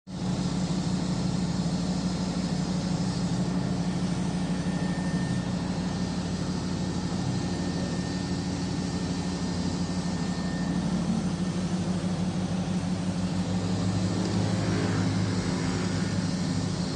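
Fogia front-loading washing machine running, a steady motor hum with a low tone.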